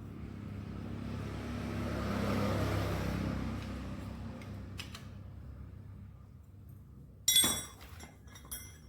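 A motor vehicle's engine noise swells up and fades away over a low steady hum. A sharp metallic clink follows near the end, like a tool set down on metal, with a lighter clink just after.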